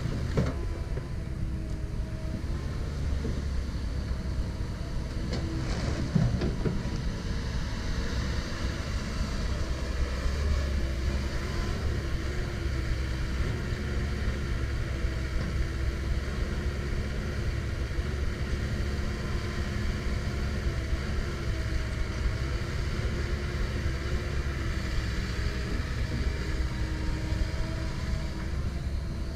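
Komatsu PC170LC-10 excavator's diesel engine running under steady working load, with a wavering whine over the rumble. A single clank about six seconds in.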